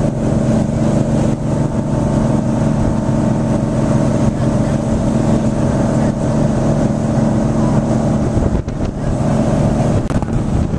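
Passenger boat's engine running steadily while under way, a constant drone.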